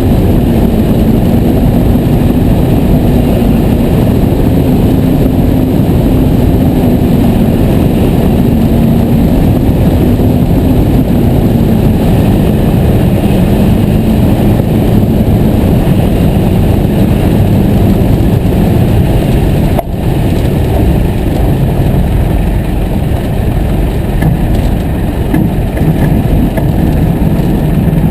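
The Piper J3C-65 Cub's Continental A-65 four-cylinder engine running steadily, its note drifting slowly lower. About twenty seconds in, the level dips briefly and the sound becomes lower.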